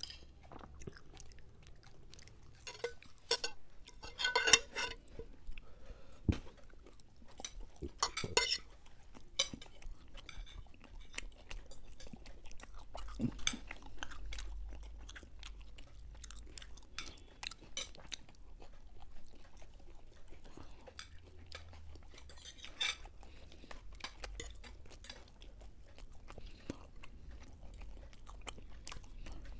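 Close-miked chewing and crunching of Mughlai paratha and chicken chop, with forks tapping and scraping on plates. Many short, sharp clicks throughout, with louder clusters about four and eight seconds in.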